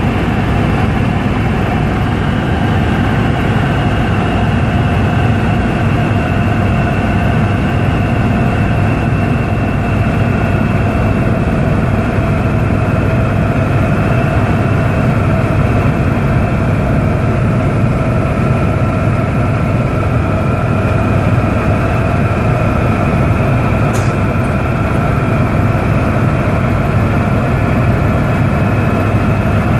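Helicopter in flight: steady, loud engine and rotor noise with several whining tones that drift slowly in pitch. A single short click comes late on.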